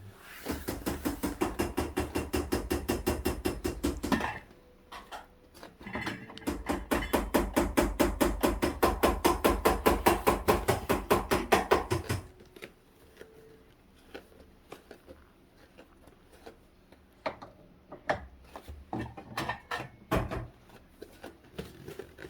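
Rapid, even clattering of toy kitchen utensils on the play kitchen, about six strokes a second, in two long runs of roughly four and six seconds. A few scattered single knocks follow.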